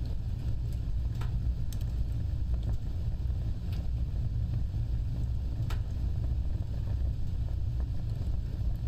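Fire burning with a steady low rumble of flames, broken by scattered sharp crackles and pops every second or two.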